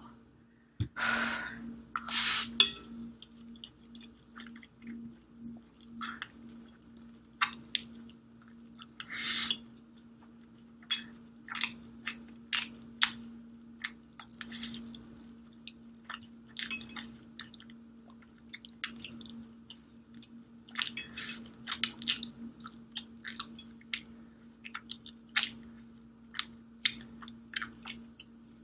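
A person slurping up a big mouthful of extra-spicy instant noodles, two loud slurps about one and two seconds in, then chewing with irregular wet clicks and smacks.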